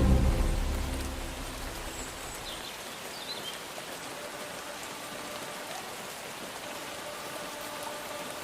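Steady rain falling, as the tail of orchestral music fades out in the first couple of seconds. A few faint high chirps come about three seconds in.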